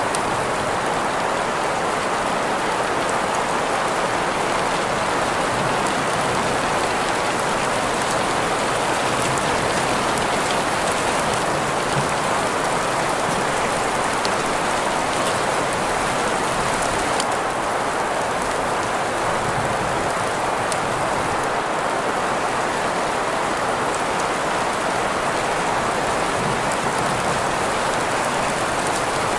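Steady rain falling on a surface, blended with a continuous hiss of green noise that sits mostly in the middle of the range, with faint scattered drop ticks above it.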